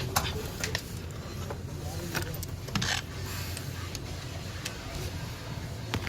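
Scattered metallic clicks and knocks of tools and parts being handled while a front-load washing machine is taken apart, with a short scraping clatter near the middle, over a steady low hum.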